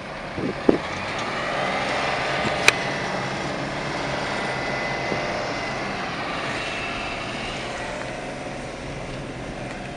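Detroit Diesel 6V71 two-stroke diesel of a GM Classic city bus running under way, a steady drone with a faint whine that swells slightly after a second or so. Two short sharp clicks sound in the first three seconds.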